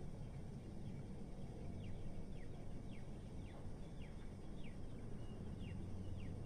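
Steady low city rumble of distant traffic, with a small bird chirping over it: short, high chirps, each falling in pitch, about two a second.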